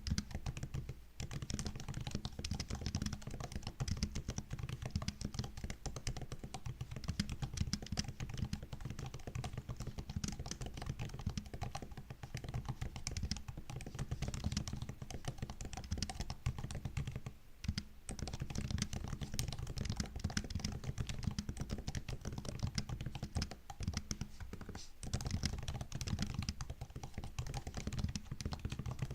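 Continuous typing on a MacBook laptop keyboard: a dense run of soft key clicks and taps, with brief pauses about a second in, around the middle and a few seconds from the end.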